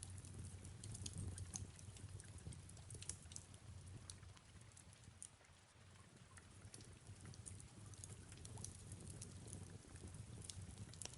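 Faint fireplace crackle: irregular sharp pops and ticks over a low, steady rumble, with soft rain falling behind it.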